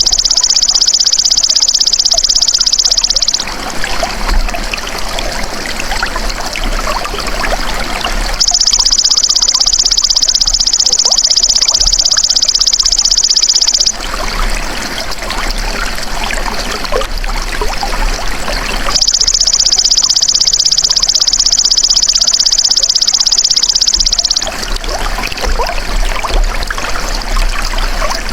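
Belalang emas (golden grasshopper) insect song: a rapid, high-pitched buzzing trill in bursts of about five seconds, repeating about every ten seconds. Between the bursts, water trickles.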